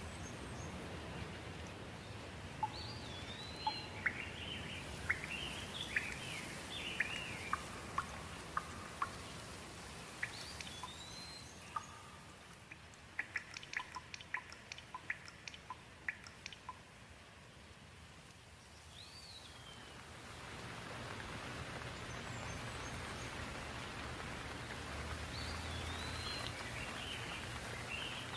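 Birds calling, with short sweeping whistles and chirps in bursts, over a steady hiss of rain. The calls crowd the first half and return near the end, with a quick run of sharp clicks in the middle, where the rain noise briefly drops away.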